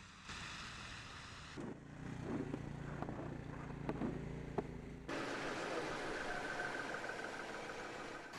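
Street sound of motor vehicles across a few edited shots: a steady low engine rumble with several sharp knocks in the middle, changing abruptly to a hiss of passing traffic.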